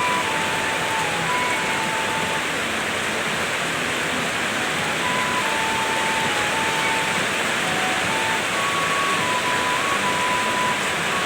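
Heavy rain pouring down in a steady, loud hiss. A faint tune of held notes, stepping up and down in pitch, sounds through it.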